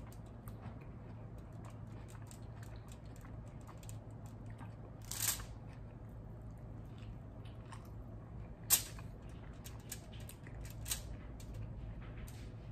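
Close-up chewing and wet mouth sounds of someone eating a potato taco, with scattered small clicks and a few sharper, louder smacks about five and nine seconds in, over a steady low hum.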